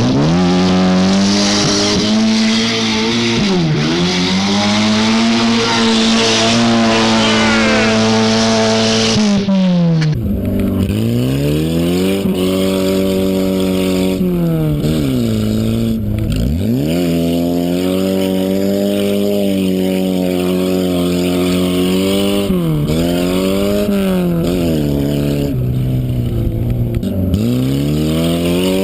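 Lada's four-cylinder engine driven hard, revving up and dropping back again and again as it shifts through the gears.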